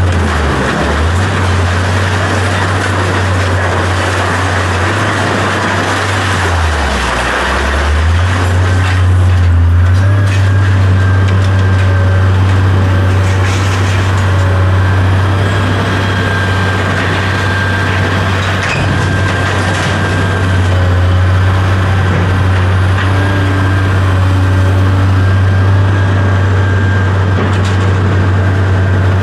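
A vehicle engine running steadily with a deep, even hum, joined by a faint steady whine about a third of the way in.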